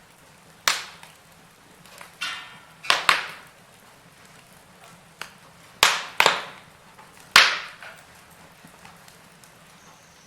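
Wood fire burning in a fireplace, crackling with about seven sharp pops and snaps over a faint steady hiss. The loudest snaps come about three seconds and seven seconds in.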